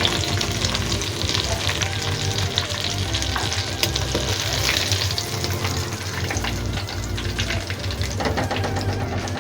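Chicken lollipops deep-frying in hot oil: a steady sizzle with many small crackling pops.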